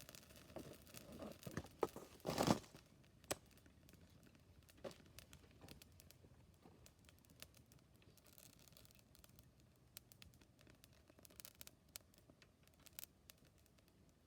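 Wood fire crackling with scattered irregular pops. Near the start comes a short run of louder rasping, crumpling sounds, the loudest about two and a half seconds in.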